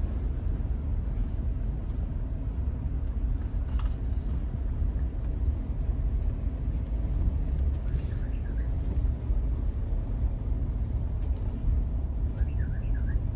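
Steady low rumble of a car on the move, with a few faint chirps and clicks over it.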